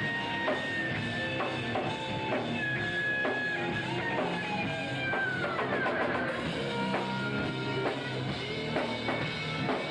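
Live hard rock band playing: electric guitar with held notes, one sliding down in pitch about halfway, over a drum kit keeping a steady beat.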